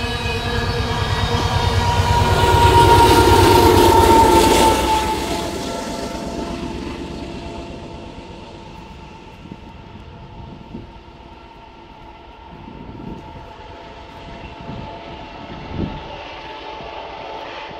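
Freight train of covered hopper cars rolling past, its wheels rumbling with a steady ringing whine over them. It is loudest a few seconds in, then fades away as the train draws off. A few faint knocks come near the end.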